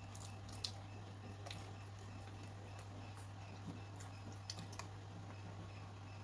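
Quiet close-up eating sounds: a handful of small sharp clicks of chewing and utensils, scattered irregularly with the loudest a little under a second in, over a steady low hum.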